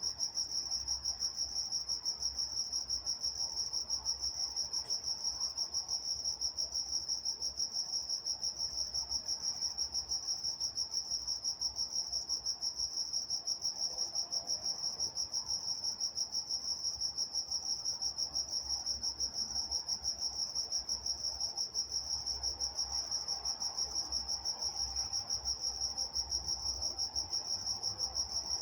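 Crickets chirping at night in a steady chorus of rapid, evenly spaced high-pitched chirps.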